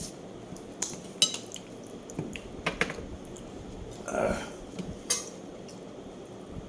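Cutlery clinking against a plate or bowl while eating: several sharp separate clicks, with a brief softer sound about four seconds in.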